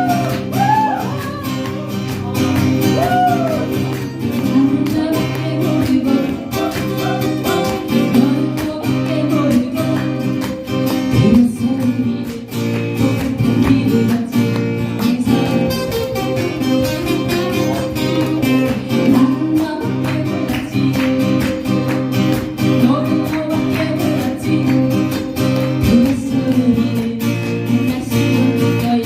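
Acoustic guitar strummed steadily, accompanying a singer's voice in a live performance of a song.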